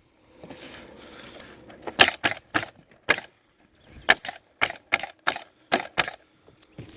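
Stinger CN100 pneumatic cap nailer firing plastic-capped nails in quick succession: a short run of sharp shots, then a faster burst of about nine at roughly four a second.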